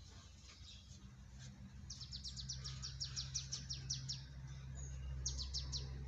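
A small bird singing a fast trill of high, downward-slurred chirps, about eight a second, for roughly two seconds, then a shorter burst of four more near the end. A low steady hum runs underneath.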